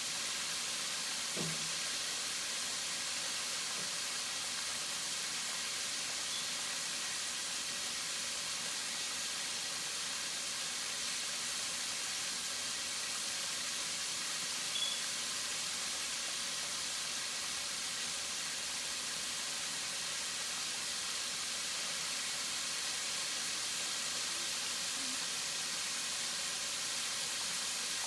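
Chicken wings frying in hot oil in a pan, a steady, even sizzle, with a light tap about halfway through.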